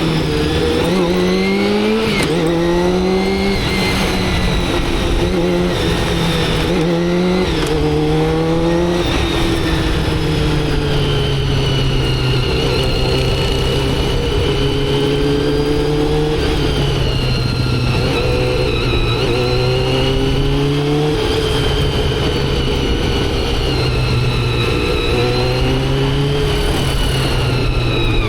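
Motorcycle engine accelerating through several gears, its pitch climbing and dropping back at each shift, then cruising at fairly steady revs with slow rises and falls.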